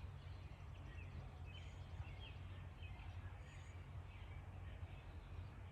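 Faint, scattered bird chirps over a steady low hum of outdoor background noise.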